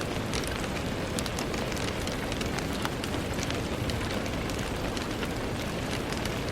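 Steady rain on window glass: a constant hiss with many separate drops ticking sharply and irregularly.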